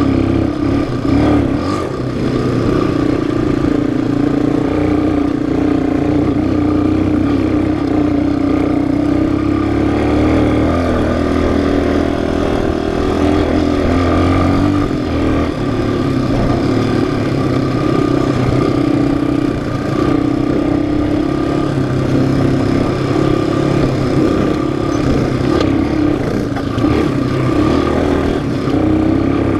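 Yamaha single-cylinder four-stroke off-road engine running continuously under throttle, its pitch wavering only slightly.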